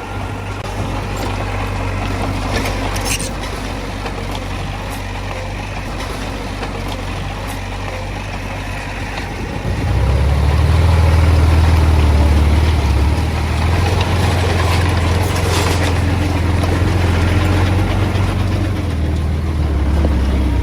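Diesel engine of heavy earthmoving machinery running steadily, then working noticeably harder and louder about ten seconds in as it takes load, with a few short metallic squeaks or clicks.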